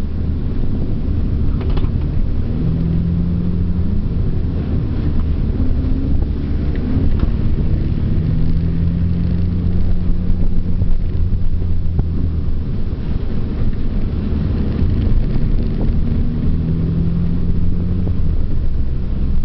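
Mitsubishi Lancer Evolution IV's turbocharged 2.0-litre inline-four running at fairly low, steady revs, heard from inside the car with road and wind noise. The engine pitch rises and falls only slightly a few times.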